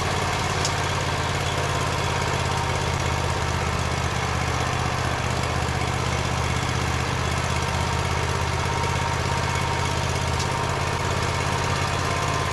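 Portable bandsaw sawmill's engine running steadily at an even speed.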